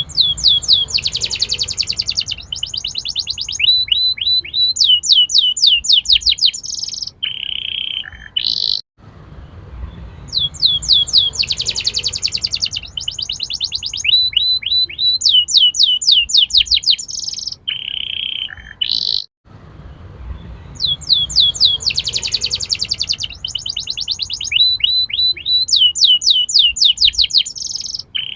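Domestic canary singing a lively song of rapid trills and rolls made of fast repeated rising notes. The same phrase of about ten seconds repeats three times over, as in a looped recording.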